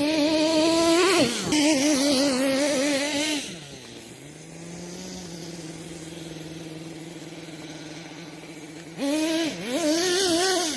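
Kyosho Mad Force nitro RC monster truck's small glow engine running at high revs with a wavering pitch, falling to a steady idle about four seconds in, then revving up again near the end.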